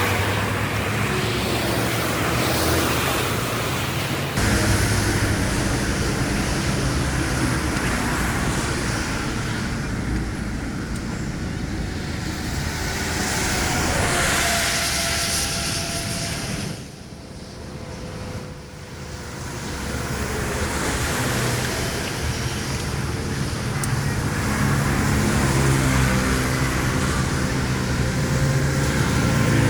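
Steady rushing noise over a low engine-like hum, dropping away briefly about seventeen seconds in.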